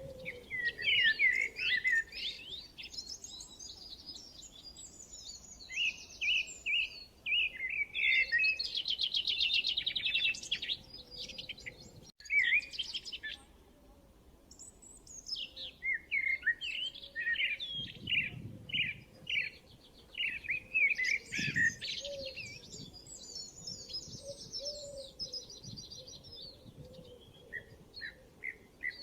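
Several songbirds chirping and trilling at once in quick, overlapping phrases, including a fast buzzy trill. The sound drops out for an instant about twelve seconds in, then the birds carry on.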